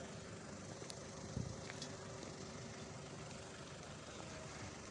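Faint, steady outdoor background noise with a low hum, a few faint clicks, and a single low thump about a second and a half in.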